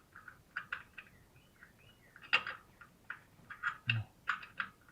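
Irregular light metallic clicks and taps of a bolt and hand tools being handled while the alternator bolts are fitted, with one louder click about halfway through and a quick run of clicks near the end.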